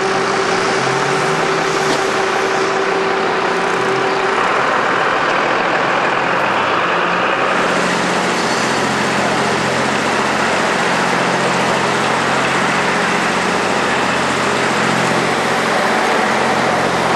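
Vehicle engines idling steadily under a constant wash of outdoor noise; a steady hum cuts out about four seconds in.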